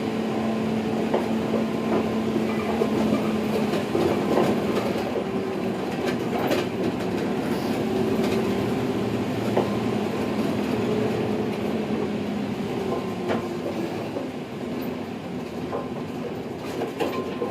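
Mitsubishi Fuso Aero Star city bus heard from inside the cabin while driving: steady diesel engine drone whose pitch drops about four seconds in, then rises and falls again, with occasional knocks and rattles.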